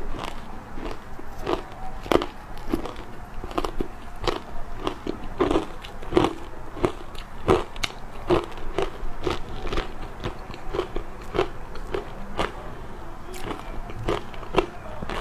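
Ice being bitten and chewed, a run of sharp crunches about one or two a second.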